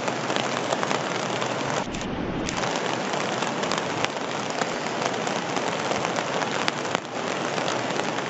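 Heavy rain falling on hard surfaces: a dense, steady hiss with many small sharp drop hits. The sound changes briefly about two seconds in, as between two clips.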